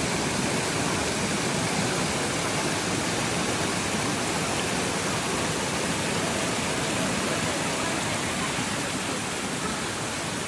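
Waterfall: water rushing steadily over the cascades, an even, unbroken hiss.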